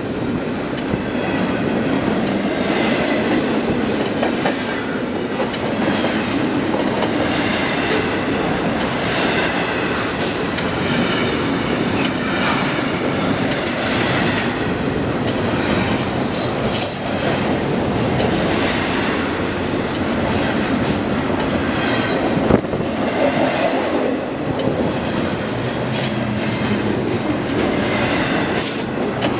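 CN double-stack intermodal freight cars passing close at speed: a steady rumble of wheels on rail, with sharp clicks over the rail joints and a high wheel squeal that comes and goes.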